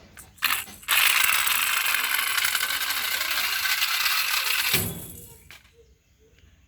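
Small toy vehicle rattling as it slides down a hard track for about four seconds, ending with a dull knock.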